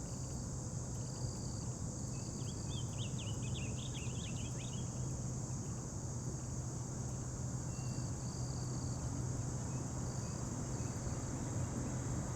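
Steady chorus of crickets with a constant low hum beneath it. A short run of quick bird chirps comes a couple of seconds in.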